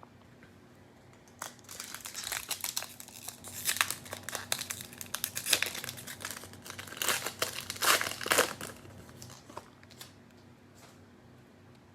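Plastic cellophane wrapper of a trading-card pack being crinkled and torn open, in irregular crackling bursts for about seven seconds, after which it goes quiet.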